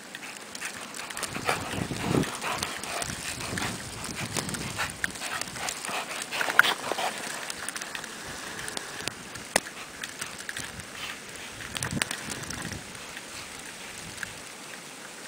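Greyhounds playing, making scattered dog sounds, with louder bursts about 2 seconds, 6 to 7 seconds and 12 seconds in.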